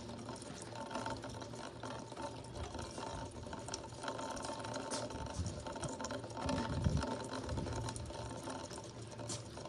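Rainwater running steadily through a roof gutter and downspout during a thunderstorm, with a few dull low thumps about seven seconds in.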